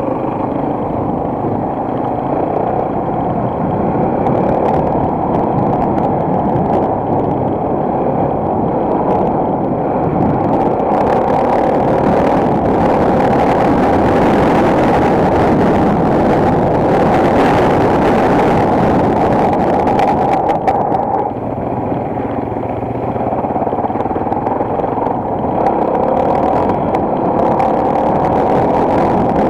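Single-cylinder four-stroke enduro motorcycle engine running steadily under way, with a brief easing of the sound about two-thirds of the way through.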